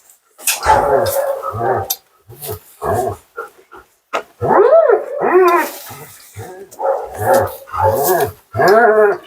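Siberian husky "talking": a run of about eight whining woo-woo calls that bend up and down in pitch, a couple of them drawn out and the rest short, the vocal protest typical of a husky being groomed.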